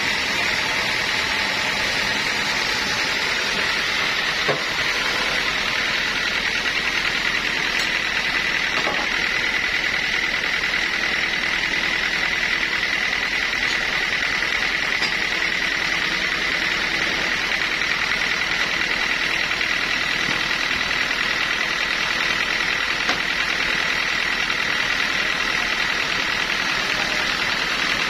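Sawmill machinery running steadily with a constant high whine. A single brief knock comes about four and a half seconds in.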